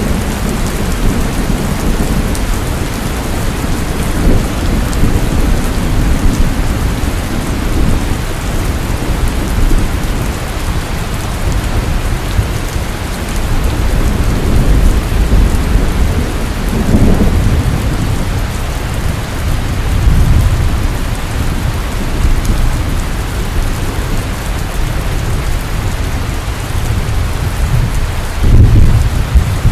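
Heavy rain pouring steadily, with rolling thunder rumbling low several times and a strong rumble near the end.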